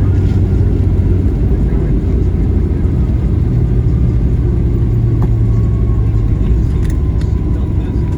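Steady low rumble of a Boeing 737-800 heard from inside the cabin on the ground, its CFM56 engines and airframe droning evenly with a low hum.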